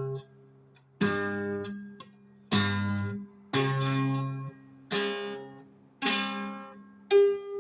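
Twelve-string acoustic guitar strummed one chord at a time, about seven strums roughly a second apart, each left to ring and then dying away, sounding out a rare alternate tuning that is not DADGAD.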